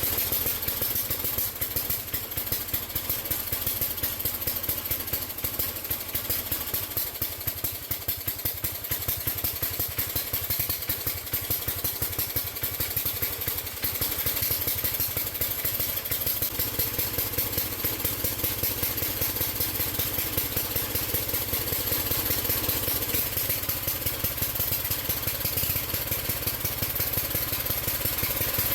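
8-horsepower Briggs & Stratton single-cylinder engine on a Wheel Horse 607 garden tractor running steadily with an even beat, a little louder about halfway through.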